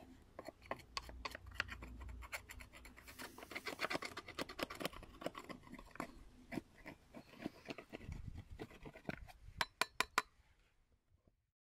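Many irregular sharp snaps and crackles, thickest in the middle, with a few louder snaps near the end before the sound stops.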